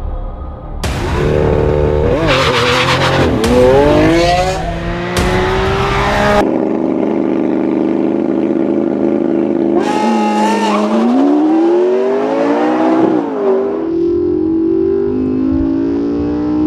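Sports car engine accelerating hard: the engine note climbs, drops at each gear change and climbs again several times, holding steadier for a few seconds in the middle.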